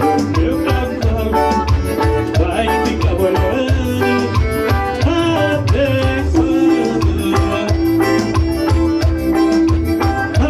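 Forró band playing an instrumental passage: a quick, steady drum beat under a melody line, with one long held note in the middle.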